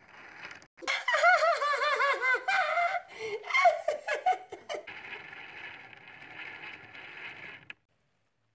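High-pitched, rapid giggling laughter, a quick run of arched squeals, followed by a few seconds of steady hiss that cuts off near the end.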